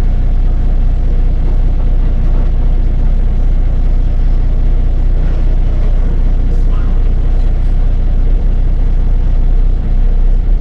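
Diesel dump truck engine running steadily, a loud low drone with no change in pitch.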